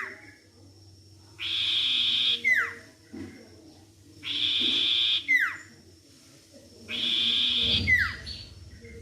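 A sirtu bird call repeated as a lure recording to trigger a bird that has gone quiet. Each call is a harsh, buzzy burst about a second long ending in a short falling whistle, and it comes three times at even spacing, about every three seconds.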